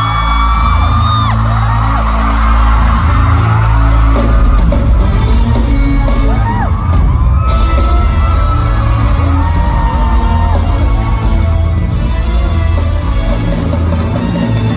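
Loud live pop music with heavy bass, played over a concert sound system, with high screams from fans in the audience rising over it now and then, most around the start.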